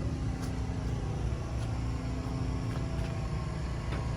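Steady low vehicle rumble with a constant hum, and a few faint ticks.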